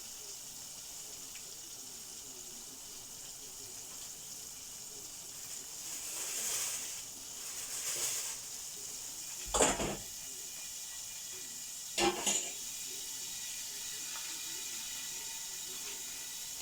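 Coated chicken strips sizzling in hot oil in a covered frying pan: a steady high hiss that swells briefly in the middle, with two sharp knocks about ten and twelve seconds in.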